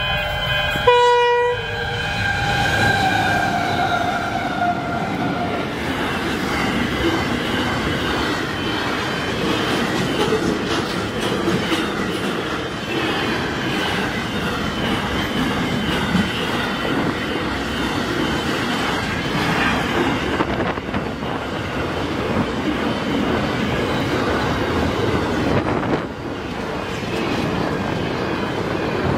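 Freight train's horn sounding a chord as the locomotive comes up and passes, its pitch sliding down and fading out within the first five or six seconds. Then the steady rumble and rattle of container wagons rolling past on the rails.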